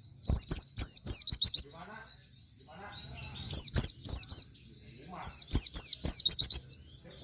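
Pleci (white-eye) singing in three rapid bursts of high, short, down-slurred chirps: one just after the start, one in the middle and a longer one near the end, with quieter chirping between.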